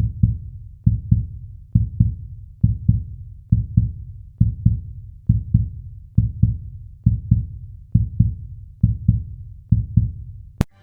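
Heartbeat sound effect: a steady lub-dub of paired low thumps, about twelve beats at roughly seventy a minute, ending with a sharp click near the end.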